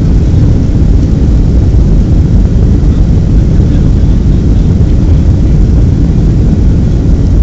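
Airliner at takeoff: the engines running at high power under a loud, steady, heavy rumble.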